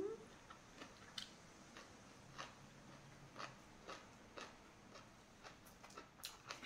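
A person chewing food with the mouth closed, faint crisp crunches about twice a second.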